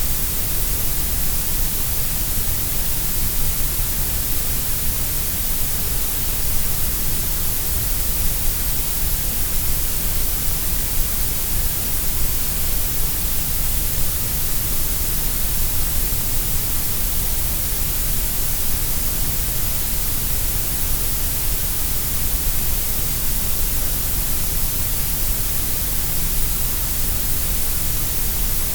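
Steady synthetic grey noise: an even, unchanging hiss, stronger in the lowest bass and the top treble than in the middle.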